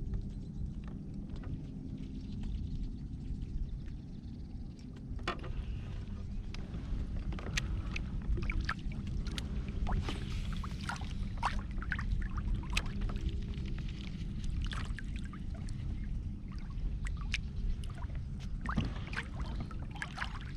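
Kayak on the water: a steady low rumble with water noise against the hull, and scattered light clicks and ticks from about five seconds in.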